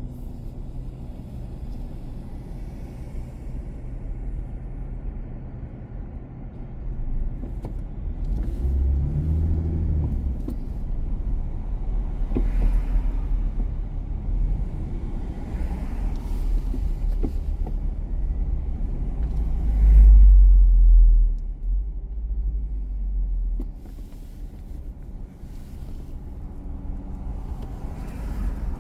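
Car driving through city traffic: a steady low rumble of engine and road noise that swells several times and is loudest about twenty seconds in.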